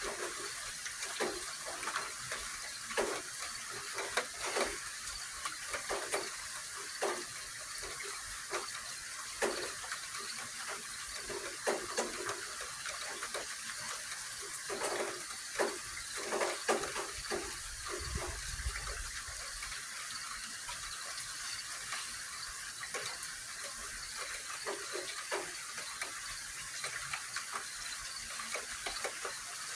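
Steady rain falling during a thunderstorm, a constant hiss with irregular drips and taps of drops on nearby surfaces, and a faint low rumble about two-thirds of the way through.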